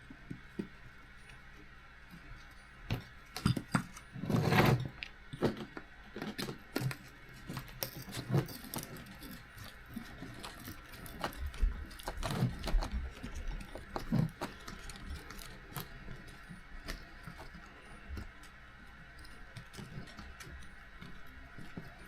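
Light clicks, taps and small rattles of plastic and metal parts handled on a workbench as the screws holding a 1/18-scale RC buggy's rear wing are backed out with a 2 mm hex driver, with a louder clatter about four and a half seconds in.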